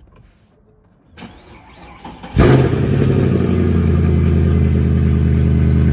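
Mercedes-Benz C63 AMG's 6.2-litre V8 starting about two and a half seconds in with a sudden loud flare, then settling into a steady idle.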